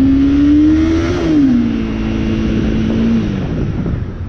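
Motorcycle engine accelerating with its pitch climbing, then dropping sharply about a second and a half in as it shifts up a gear. It holds steady, then eases off near the end.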